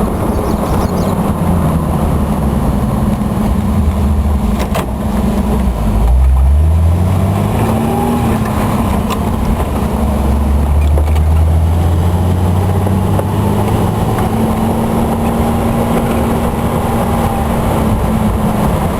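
Vehicle engine running as it drives, rising in pitch about six seconds in as it speeds up, then holding steady.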